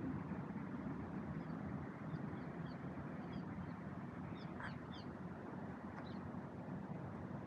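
Faint, short bird chirps scattered over a steady low outdoor rumble, with a small cluster of calls about four to five seconds in.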